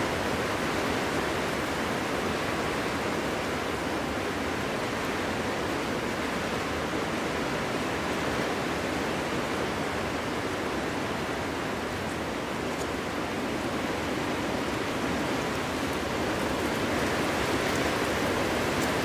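Winter wind blowing steadily through a forest: a constant rushing noise with no whistle or pitch to it, easing slightly midway and swelling again near the end.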